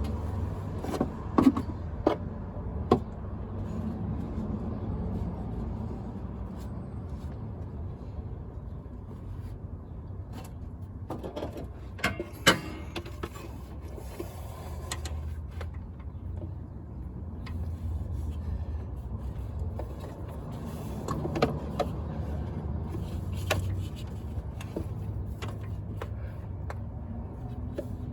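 Scattered clicks and knocks of tools and parts being handled during hose work under the hood, over a steady low rumble.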